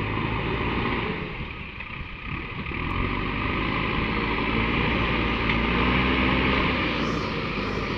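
Large diesel engine of a heavy vehicle such as a tractor or JCB running steadily, a little quieter around two seconds in and louder again from about three seconds.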